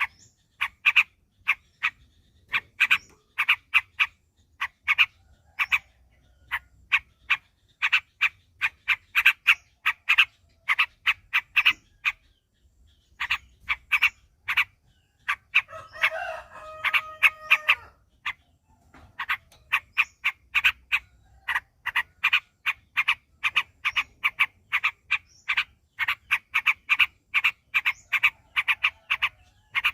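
Yellow-vented bulbul (trucuk) song: long runs of quick, short, bubbly notes in rapid-fire 'ropel' style, with a brief pause about twelve seconds in. Around the middle a longer call holds a steady pitch for about two seconds over the notes.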